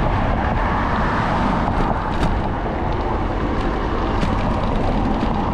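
Steady wind rush over a camera microphone on a moving e-bike, mixed with tyre and road noise, with a few light clicks and rattles.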